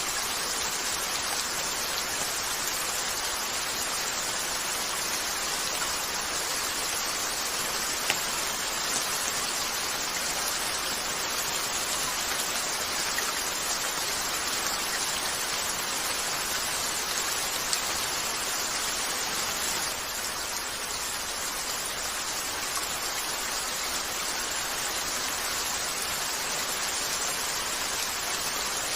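Steady rain falling on a window, an even hiss with a few faint ticks.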